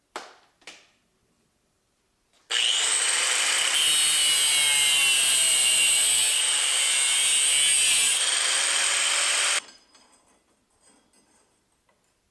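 A power tool cutting a wedge into 1 3/8 inch metal pipe, so that the pipe can be bent. It starts about two and a half seconds in, runs steadily with a high whine for about seven seconds, and cuts off suddenly.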